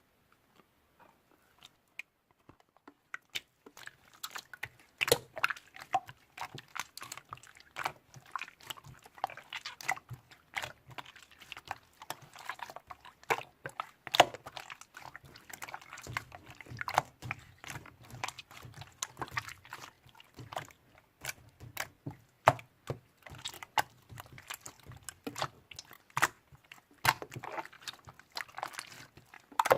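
Slime being squeezed and pressed by hand, giving dense, irregular clicking and popping that starts about three seconds in.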